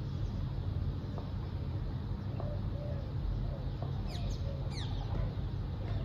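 Birds calling over a steady low rumble: a run of faint, wavering low calls, then two quick high chirps that fall in pitch near the end.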